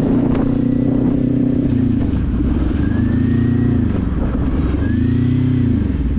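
Motorcycle engine running under way, with a low wind rumble on the microphone. The engine pitch swells up and falls back twice, near the middle and again near the end, as the throttle is rolled on and off.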